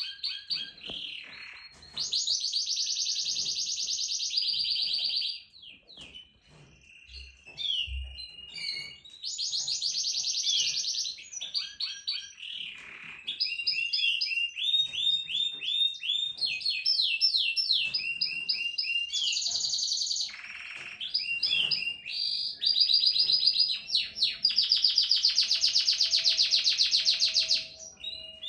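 Domestic canary singing: a long song of fast trills and rolling tours broken by short pauses, with the longest, loudest roll near the end.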